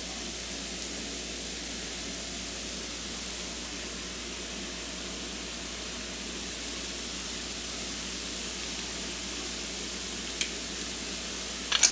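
Tofu scramble sizzling steadily in a frying pan, with a single click about ten seconds in and a quick couple of clicks at the very end.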